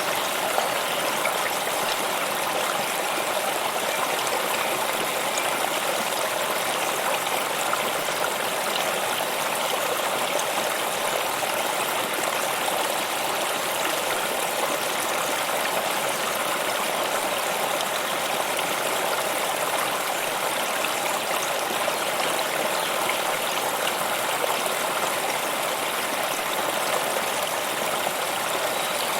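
A flowing stream: water rushing and trickling steadily, without let-up.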